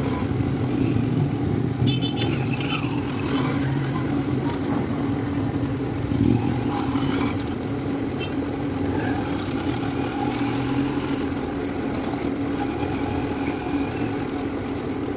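Motorcycle engine of a passenger tricycle running steadily while riding, its hum holding at a fairly even pitch over road noise.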